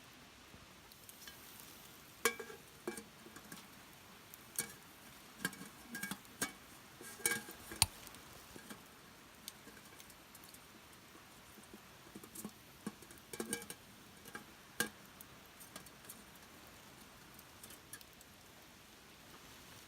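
Irregular clinks and knocks, some with a short ringing tone, bunched in two busy spells, over a faint steady background.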